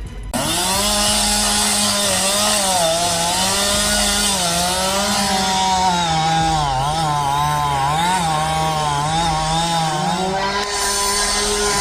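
Chainsaw running at high revs while cutting wood, its engine pitch dipping and recovering repeatedly as the chain takes load. It starts abruptly about half a second in.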